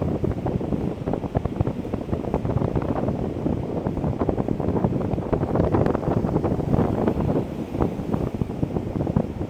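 Strong wind buffeting the microphone in irregular gusts, over the steady wash of breaking ocean surf.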